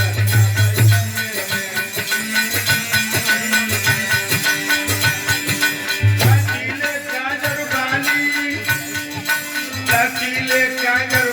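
Instrumental folk music: a pulsing drum beat, shaken rattle percussion and a melody line.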